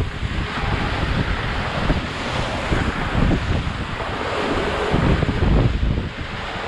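Wind buffeting the microphone over the rush of sea water around a sailing boat under way, with gusts rising and falling.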